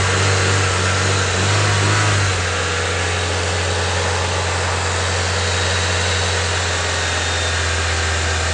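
Chevrolet Onix engine running steadily with a strange noise, which the mechanic puts down to a failed water pump bearing that was wearing away the side of the timing belt.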